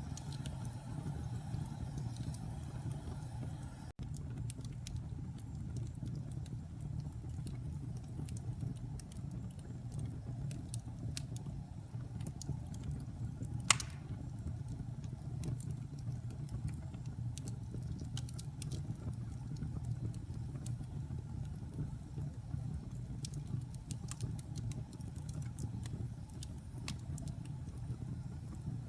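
Wood fire burning in a fireplace: a steady low rumble of flames with scattered small crackles and one much louder pop about fourteen seconds in.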